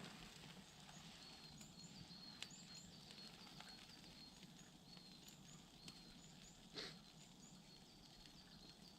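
Faint small birds chirping, repeated short high notes that rise in pitch, with a few faint clicks and one soft knock about seven seconds in.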